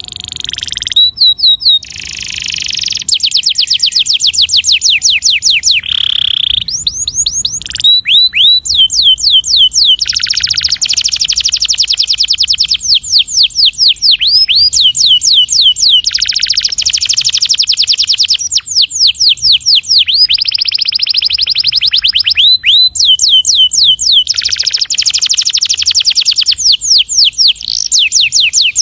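Domestic canary singing long rolling trills: fast runs of high repeated notes, some sweeping and some held as a rapid buzzing roll, going on with hardly a break.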